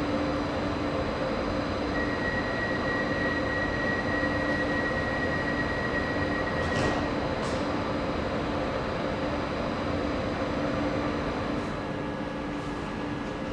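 A stationary electric double-deck train running at the platform: a steady electrical hum and ventilation noise in a covered station hall. A high steady whine sounds for several seconds in the middle, there are a couple of faint clicks, and the level dips slightly near the end.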